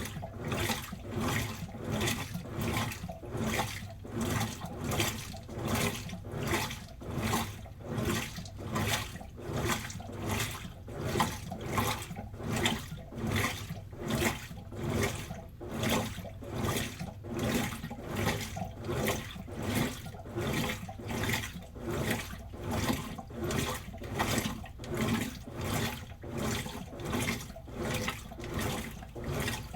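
Washing machine mid-load, water and clothes sloshing in the turning drum in a steady rhythm of about three sloshes every two seconds.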